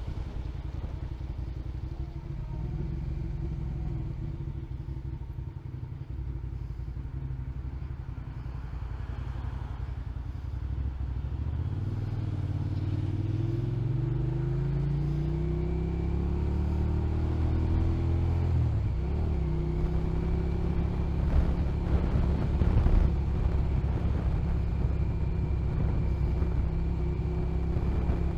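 Motorcycle engine heard from the rider's seat, running at a steady low speed, then accelerating about halfway through with the engine pitch climbing twice, as through an upshift, before settling into a steady cruise with road and wind rumble.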